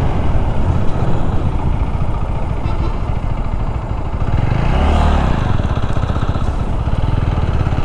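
Motorcycle running along a highway, its engine and road noise steady, with a brief swell that rises and falls about five seconds in.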